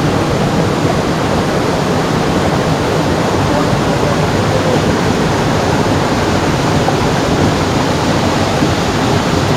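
Very heavy rain pouring down: a loud, steady rush of water with no letup.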